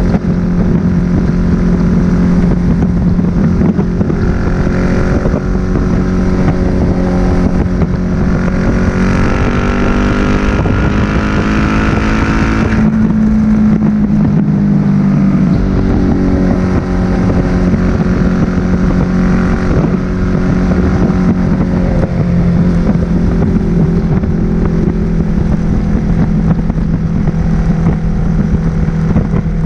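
Suzuki SV1000S 90-degree V-twin engine with a Leo Vince aftermarket exhaust running at a steady cruise, with wind noise. About a third of the way in, the revs climb for several seconds, then drop off suddenly before settling back to a steady run.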